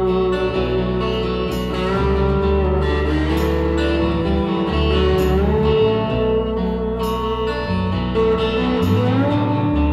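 Live acoustic rock band playing an instrumental break: a guitar lead with sliding notes over bass and drums.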